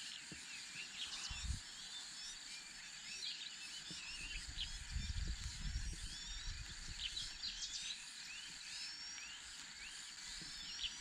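Birds giving many short, high chirps throughout, over a steady high-pitched insect drone, with a low rumble in the middle.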